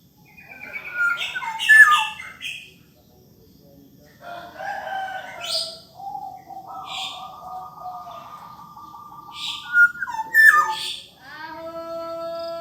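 Black-naped oriole singing fluty whistled phrases, some notes sliding sharply downward, in several bursts with pauses between, mixed with short higher chirps.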